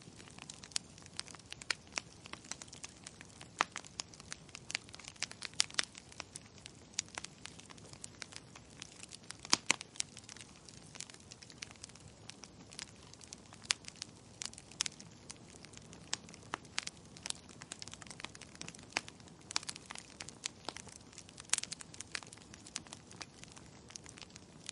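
Wood fire crackling: irregular sharp snaps and pops over a soft steady hiss. The loudest pop comes about halfway through.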